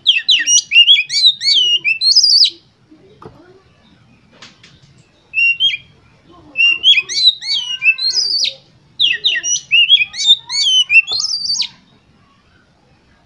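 Oriental magpie-robin (kacer) singing loud, rapid phrases of varied, sweeping whistled notes. There are three long bursts of song and one short phrase between them, separated by brief pauses. This is the kind of song played as a lure to set a contest bird singing.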